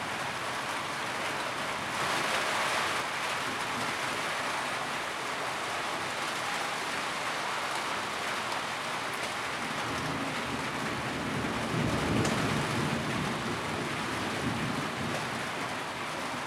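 Steady rain drumming on a tin roof, a dense even patter. It briefly grows brighter about two seconds in, and a low rumble swells and fades about two-thirds of the way through.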